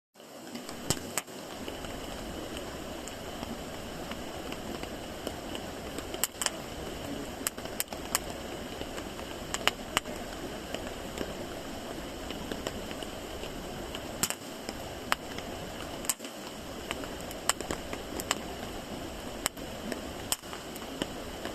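Wood campfire burning: a steady low rush of flames with sharp crackles and pops from the wood at irregular moments.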